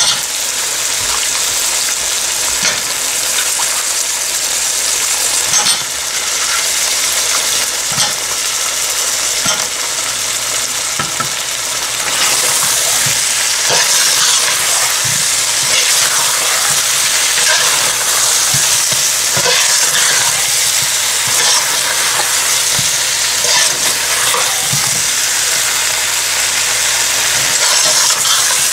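Goat meat and potato chunks sizzling in hot oil and masala in a cooking pot as they are browned (bhuna), stirred with a metal spatula that scrapes and knocks against the pot now and then. The sizzle gets louder about twelve seconds in.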